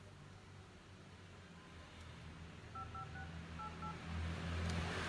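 Phone keypad dialing tones on a Samsung Galaxy A42 5G: a quick run of about five short two-note beeps about three seconds in, as digits are keyed during a call. A low hum builds toward the end.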